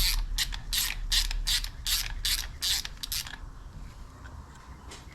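Ratchet wrench clicking rapidly, several clicks a second, as it turns a bearing installer tool that draws the cam bearing into a Harley-Davidson Evo engine case. The clicking stops a little over three seconds in, as the tool bottoms out on the case with the bearing flush.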